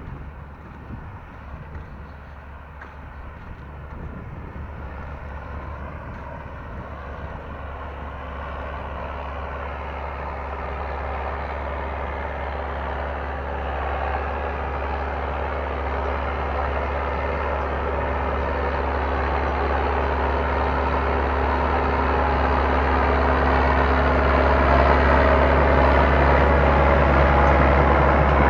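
Tractor engine running steadily, growing gradually louder throughout.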